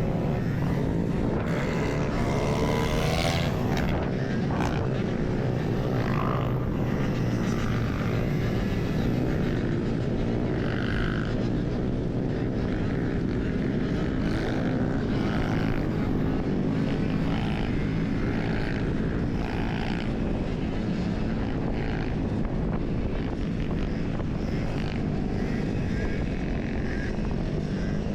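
Steady wind rush buffeting the microphone of a rider on a moving electric dirt bike, with road noise mixed in; the level stays even throughout.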